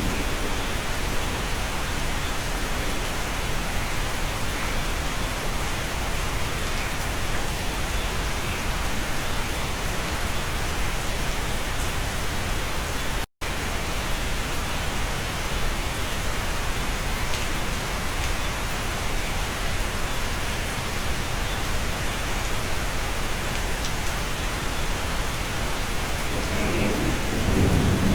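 Steady rain hissing evenly. It cuts out for an instant about halfway through, and a low rumble of thunder swells near the end.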